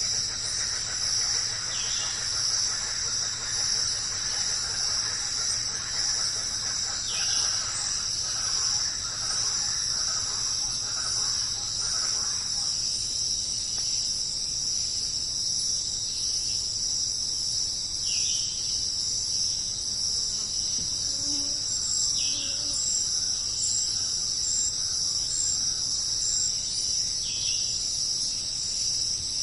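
Chorus of crickets, a steady high-pitched trill, with about five short falling bird chirps spaced several seconds apart.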